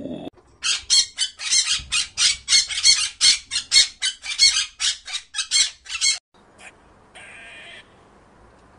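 A parakeet squawking in a fast run of short, harsh, high calls, about four a second, for some six seconds before it stops.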